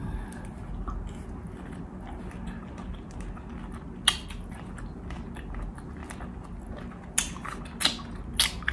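A person chewing food close to the microphone, with a few sharp clicks: one about four seconds in and three more in the last second and a half.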